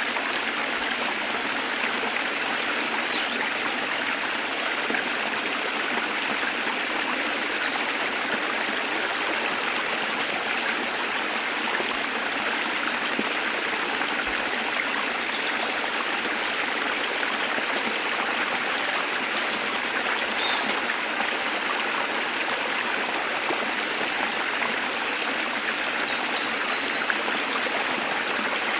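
Waterfall water rushing in a steady, even wash, with a few faint, brief bird chirps now and then.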